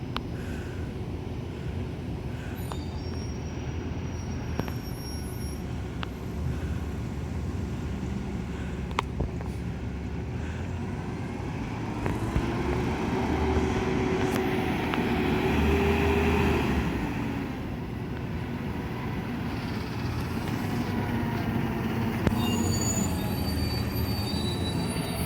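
Garbage truck's diesel engine running steadily, then revving up about halfway through with a rising, then held whining squeal for several seconds as the truck works a dumpster, before easing back down.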